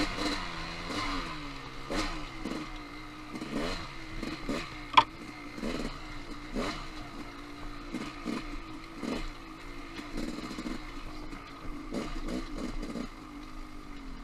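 Dirt bike engine revving up and down through the throttle on a rough trail, with clattering knocks from the bike over rocks and roots. One sharp crack stands out about five seconds in.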